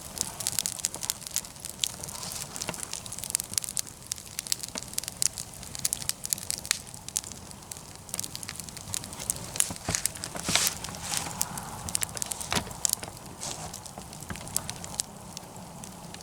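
Wood campfire in a fire pit, crackling with irregular sharp pops over a steady hiss.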